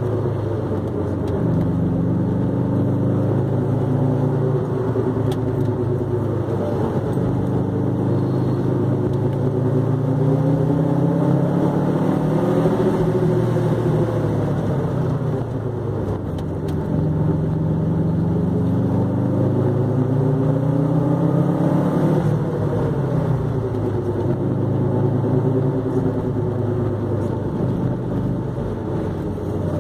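A wagon's engine heard from inside the cabin on an autocross run, its pitch climbing under acceleration and falling away as the throttle lifts between cone gates. There is a sharp drop about three-quarters of the way through.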